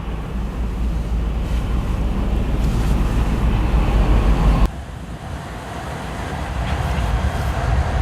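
Low rumble of a passing freight train with wind buffeting the microphone. The sound cuts off abruptly a little over halfway through to a quieter rumble that builds again.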